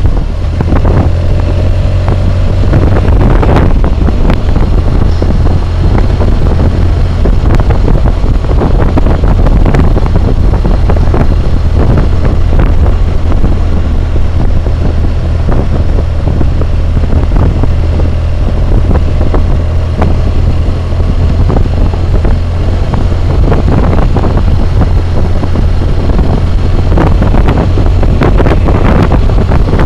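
Wind roar and buffeting on a helmet-mounted camera's microphone while riding a BMW motorcycle at road speed: a loud, steady low rumble with frequent short flaps, and the motorcycle's engine faint underneath.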